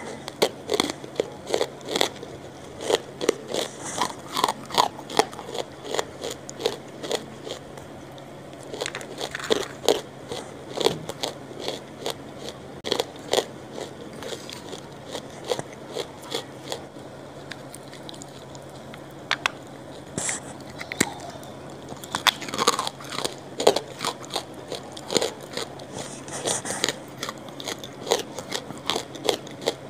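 Close-miked chewing of crunchy food: irregular crisp crunches and wet mouth sounds, heard up close through a microphone held at the mouth.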